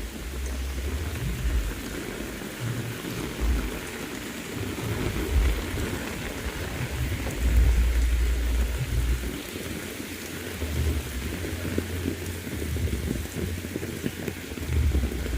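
Heavy rain falling steadily, with low rumbles swelling and fading every second or two underneath.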